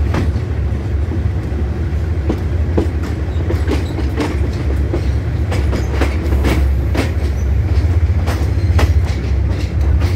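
A commuter train carriage rolling over the track, heard from an open window: a steady low rumble with irregular clacks from the wheels crossing rail joints and points.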